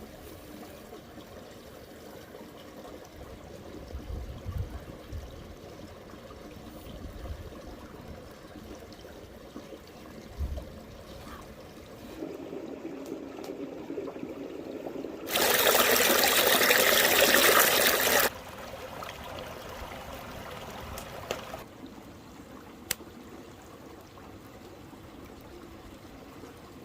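Steady running water of a mountain river, with a few soft knocks. Just past the middle there is a loud rushing hiss lasting about three seconds, with quieter stretches before and after it.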